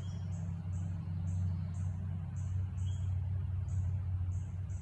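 An insect, likely a cricket, chirping in short high pulses about twice a second, over a steady low rumble.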